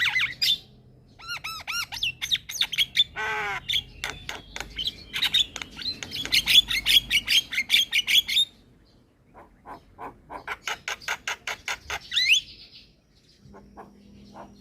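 Black-winged myna (jalak kebo) singing: fast runs of clicking, chattering notes mixed with whistled glides, broken by a short pause and ending in a rising whistle. A low steady hum starts near the end.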